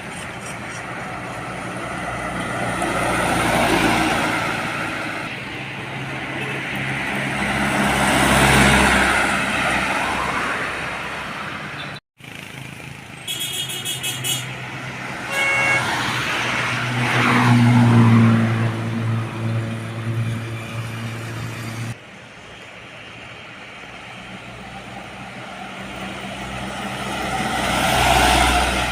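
Heavy trucks and buses driving past one after another, each engine swelling louder as it nears and fading as it goes. A vehicle horn sounds briefly near the middle.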